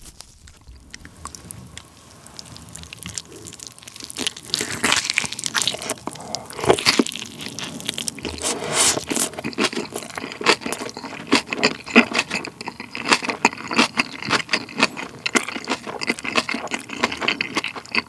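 A person chewing a mouthful of roasted chicken drumstick and spicy cabbage kimchi. It is quiet at first, then from about four seconds in come many quick, irregular crunches.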